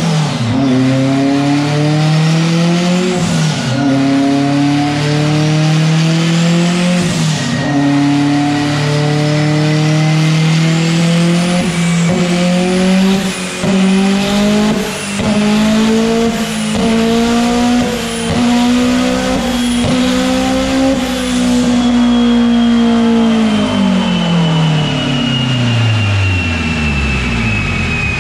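Honda-engined, turbocharged Subaru WRX making a full-throttle dyno pull. The revs climb and drop back twice in the first several seconds, as at gear shifts, then climb steadily in the final gear with sharp crackles for about ten seconds. About 22 s in the throttle closes, the revs fall away, and a high whine winds down as the rollers slow.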